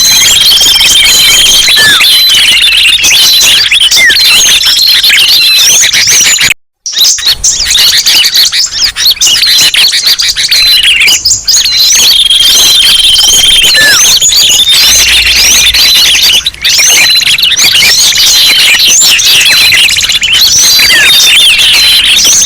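A dense, noisy chorus of many small songbirds chirping, twittering and whistling at once: a bird-lure recording of agitated small birds used to attract birds down. It breaks off abruptly for a moment about a third of the way through, then resumes.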